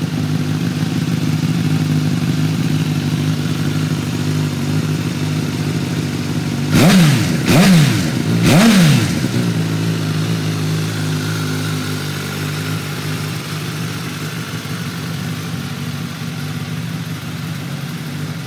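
2016 Suzuki GSX-S1000's inline-four engine through an aftermarket Yoshimura muffler, idling steadily. About seven seconds in, the throttle is blipped three times in quick succession, each rev rising and dropping straight back, before it settles to idle again.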